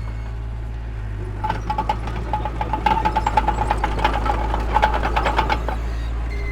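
Heavy diesel earthmoving machinery running with a deep steady rumble. From about a second and a half in, a rapid run of metallic clanks with a squealing tone goes on for about four seconds, then stops.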